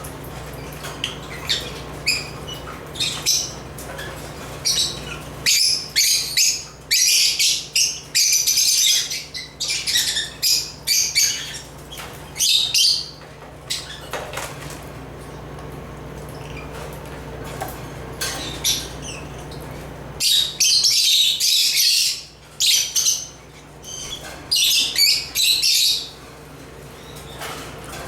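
African lovebirds (Agapornis) chirping in rapid, shrill bursts, in two busy spells with a quieter stretch between them, over a faint steady low hum.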